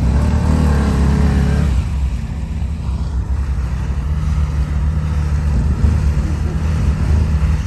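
ATV engine revving hard under load as the quad struggles in deep mud, a wavering whine in the first second and a half settling into a steady drone. The wheels dig the quad deeper into the mud.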